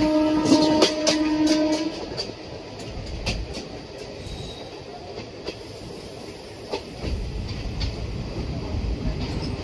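Diesel-or-electric locomotive horn of an Indian express train sounding one steady note heard from a passenger coach, cutting off about two seconds in. After it the train runs on with a low rumble and scattered clicks of the wheels over rail joints.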